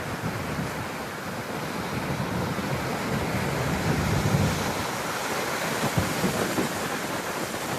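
Steady rush of ocean surf with wind buffeting the microphone, swelling a little about halfway through.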